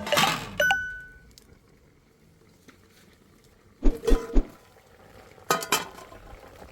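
Dishes clinking: a sharp clink with a short bright ring just after it near the start, then two clusters of quick knocks about four and five and a half seconds in.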